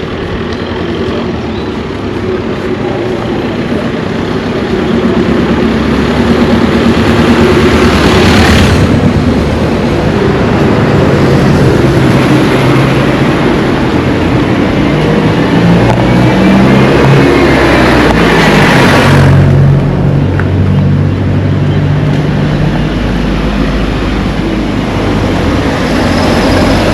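Road traffic: motor vehicles running and passing close by, with two louder passes about a third and two-thirds of the way through.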